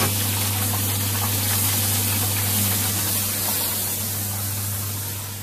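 Steady hiss of food deep-frying in hot oil, over a constant low hum. The sound eases a little near the end.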